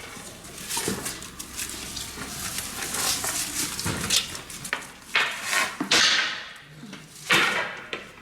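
Irregular knocks and clinks of hand work with pots and utensils, with a few louder scraping or rushing noises in the second half.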